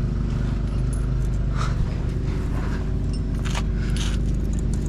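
A steady engine drone holding one even pitch, with a few faint scrapes and clicks over it about a second and a half, three and a half and four seconds in.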